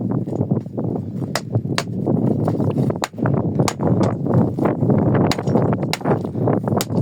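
Rocks and earth being handled: continuous crunching and scraping, with sharp clicks of stone knocking on stone every half second to a second.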